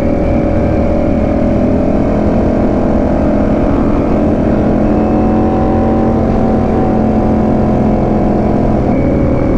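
Ducati Panigale V4 S's V4 engine running at a steady cruise, with wind rush over the microphone. The engine note rises slightly mid-way, then eases off near the end.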